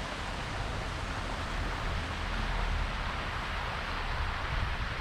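Steady rushing hiss of water splashing from a pond fountain, with an unsteady low rumble underneath.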